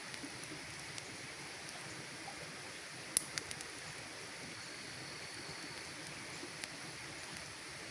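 Campfire burning with a steady hiss and scattered sharp crackles and pops, the loudest pop about three seconds in, followed quickly by two smaller ones.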